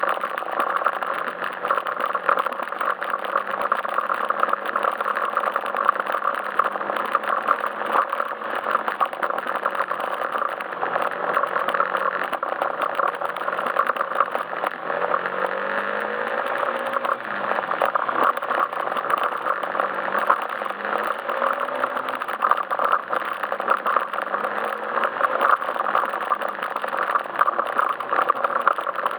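Yamaha Majesty S scooter's single-cylinder engine running under way, over a steady rush of wind and road noise. The engine note rises and falls several times in the middle.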